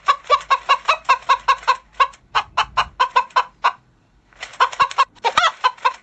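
Hen clucking in a fast run of short, repeated clucks, about four to five a second, pausing briefly about four seconds in before starting again.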